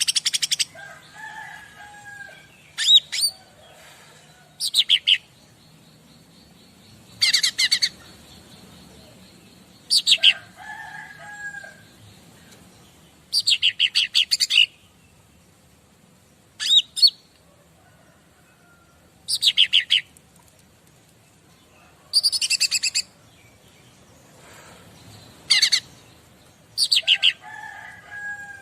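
A cica ranting songbird singing: short bursts of fast, high chattering notes, repeated every two to three seconds, with a few lower gliding calls among them.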